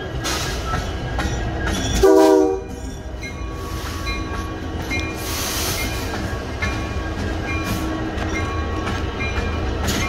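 CN diesel freight locomotives rumbling past, with a short horn blast about two seconds in that is the loudest sound. Thin, high wheel squeals come and go.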